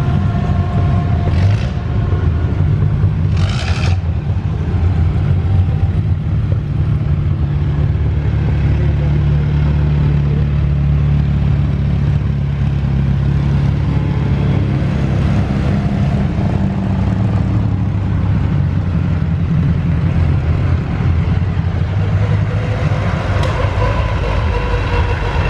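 Vintage racing car engines running at low revs as the cars drive slowly past one after another. It is a steady deep engine drone whose pitch rises and falls a little.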